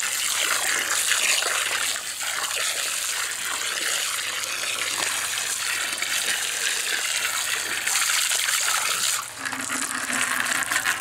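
Steady rush of flowing water, dipping briefly about nine seconds in.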